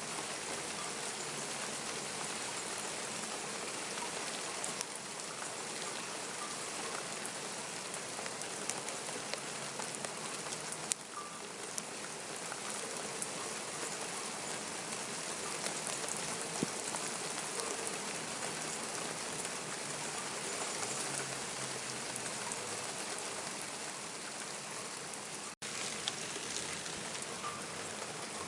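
Steady rain falling and pattering on surfaces, with scattered sharper drop ticks. The sound cuts out for an instant about three-quarters of the way through.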